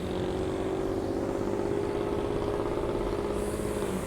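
A motor running with a steady hum of constant pitch that cuts off suddenly just before the end.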